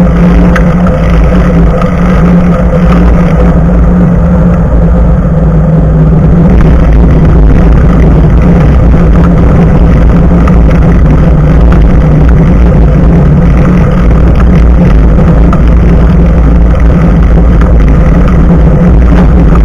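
Loud, steady wind and road rumble from riding a bicycle, picked up by an action camera's built-in microphone mounted just above the front tyre. The sound is heavy in the low end and close to clipping.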